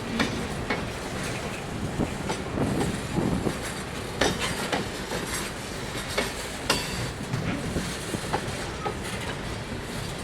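Freight train cars rolling past, the wheels clicking over rail joints with irregular sharp clanks over a steady rumble.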